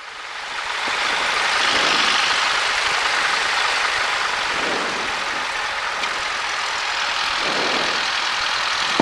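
Cessna 172's engine heard inside the cockpit while taxiing: a steady, even drone that swells over about the first second and then holds.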